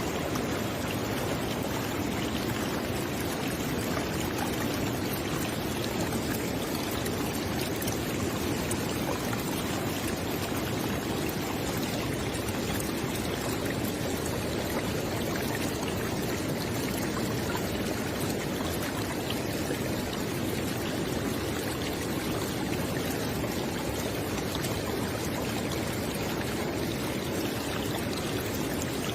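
River water flowing steadily over rocks, a continuous rushing and gurgling with no change in level.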